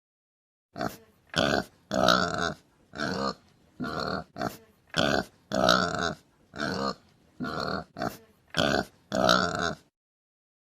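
An animal grunting over and over: about a dozen short, rough calls in an uneven rhythm, starting about a second in and stopping about a second before the end.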